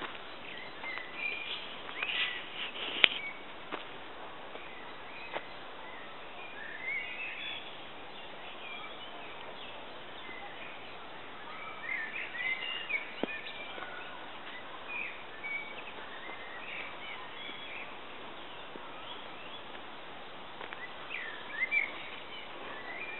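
Small songbirds chirping and singing in scattered short phrases over a steady hiss. A sharp click about three seconds in is the loudest moment, with a few fainter clicks later.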